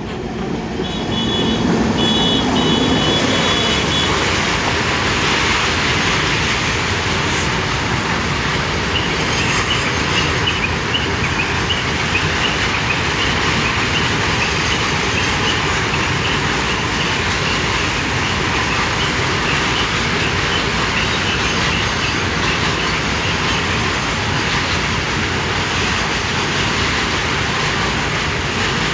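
Goods train passing at close range: a WAG-9 electric locomotive at first, then a long string of open-top freight wagons rolling steadily over the track.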